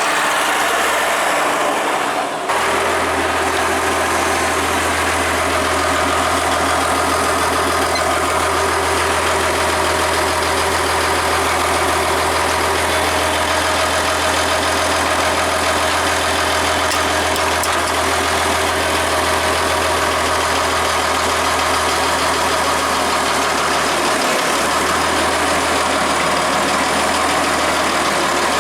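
1966 International Farmall 806 tractor's six-cylinder engine idling steadily and running clean, with a brief dip in the sound about two seconds in.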